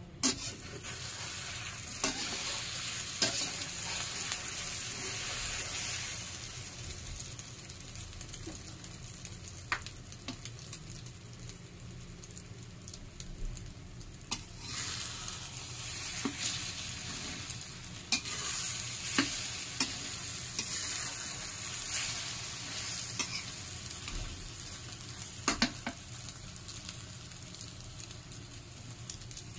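Thai omelette with diced bologna sizzling in hot oil in an aluminium wok. A metal spatula scrapes and clinks against the wok now and then. The sizzle is loud for the first few seconds, eases off for a while, then swells again about halfway through.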